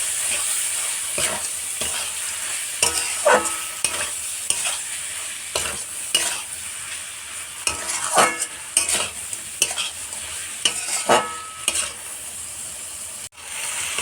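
Prawns in a mustard-paste masala sizzling in a pan while a utensil stirs and scrapes through them again and again, the kosha stage of frying the curry down. The sound cuts out for an instant near the end.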